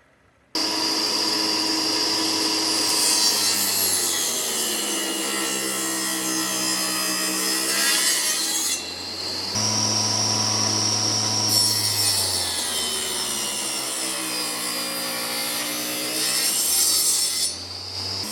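Electric power tool cutting wood. Its motor cuts in abruptly about half a second in and runs under load, its pitch sagging and recovering as it bites. It eases off briefly twice, around the middle and near the end.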